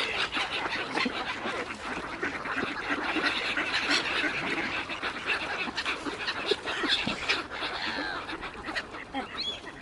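A crowd of waterbirds calling over one another without a break while being fed, many overlapping short calls.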